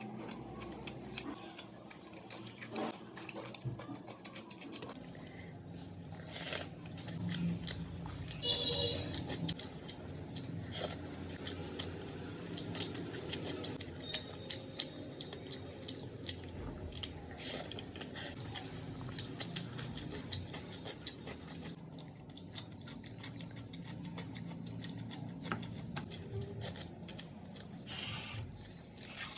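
Close-up eating sounds: a person chewing food, with many small clicks and crackles from the mouth and the food.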